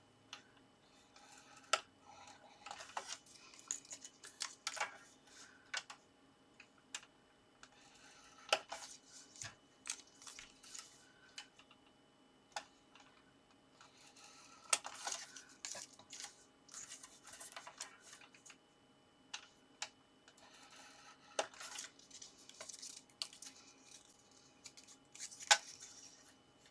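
Card being scored by hand: short scratchy strokes of a scoring tool drawn along paper strips, with sharp clicks and taps as the card is handled between strokes.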